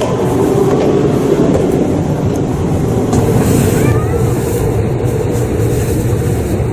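Shinkansen train running: a steady, loud rumble, with a few faint short high tones about four seconds in.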